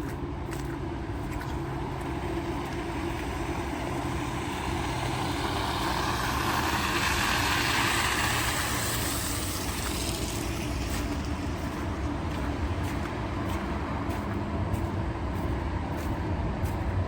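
A road vehicle driving past on a city street. The hiss of its tyres and engine swells over several seconds, peaks about halfway through and fades away, over a steady low rumble of traffic.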